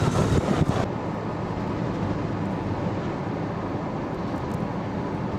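Steady road and engine noise of a car driving, a little louder for the first second before settling into an even rumble.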